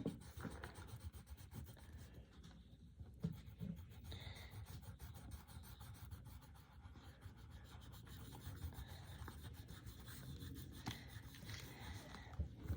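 Faint scratching and rubbing of a colored pencil on paper as a drawing is colored in.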